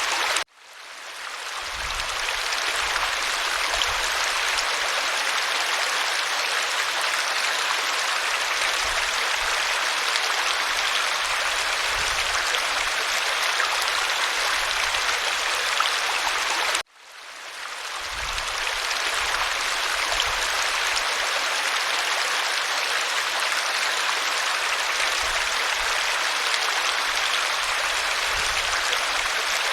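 Waterfall rushing steadily, an even hiss of falling water. It cuts out suddenly twice, about half a second in and again around the middle, each time fading back up within a second or two.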